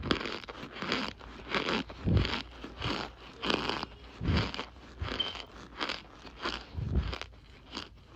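Dried cornstarch chunks being crushed, a quick run of crisp, squeaky crunches about two a second, some with a soft low thud.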